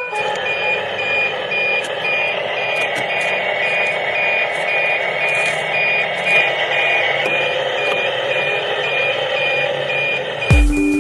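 A truck's reversing alarm beeping steadily, about two high beeps a second, over engine and traffic noise. Loud music cuts in near the end.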